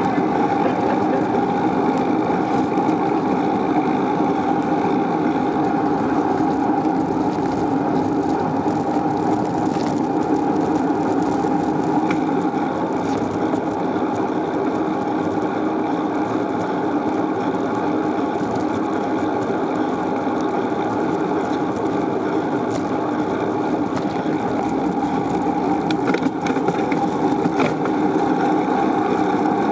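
Steady rushing wind and road noise from a moving bicycle, buffeting the microphone without a break.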